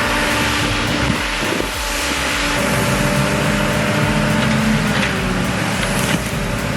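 Heavy wood-processing machinery running: a steady engine drone that shifts pitch a couple of seconds in, under a dense rushing noise.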